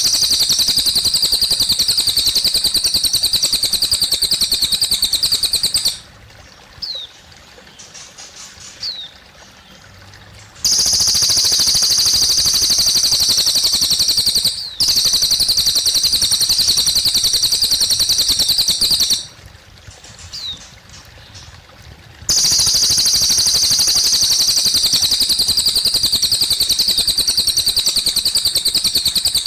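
Cililin bird singing long, rapid, high trilled phrases of several seconds each. Between the phrases come short pauses with a few brief falling chirps. Faint trickling water runs beneath.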